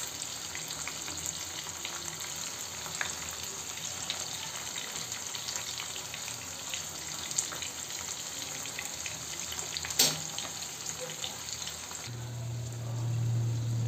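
Climbing perch (koi fish) parcels wrapped in bottle-gourd leaves sizzling in a shallow gravy in a frying pan, a steady crackle of small pops. A single sharp click comes about ten seconds in, and a low hum comes in near the end.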